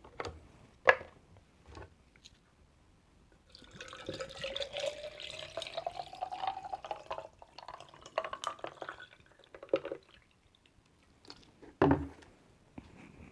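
Grape juice drink poured into a glass for about six seconds, the pitch rising as the glass fills, with a few sharp clicks before it and knocks near the end.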